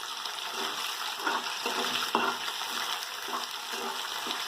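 Sliced onions sizzling in hot ghee in a kadai, with repeated short scrapes and clinks of a spatula stirring them.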